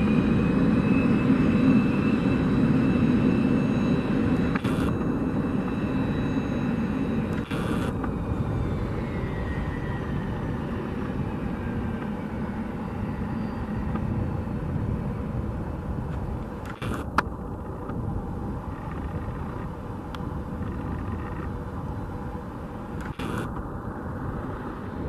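Cessna Citation M2 business jet's twin turbofans running, a steady rush with a faint high whine, slowly growing quieter. A few brief clicks.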